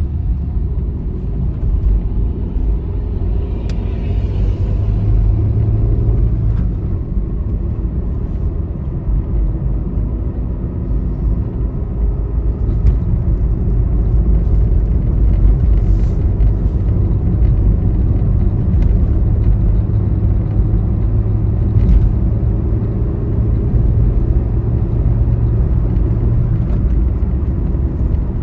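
Steady, deep rumble of a vehicle travelling along a highway: engine and tyre noise, with a few faint ticks here and there.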